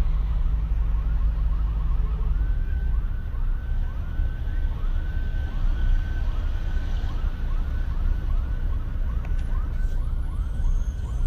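Car alarm sounding: a repeated rising whoop whose pace changes from fast to slower and back, over the low rumble of a car's engine and road noise.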